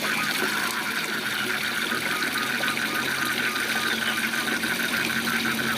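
Waterfall rushing steadily, with a frog calling in a fast, even trill of several pulses a second and a low steady hum underneath.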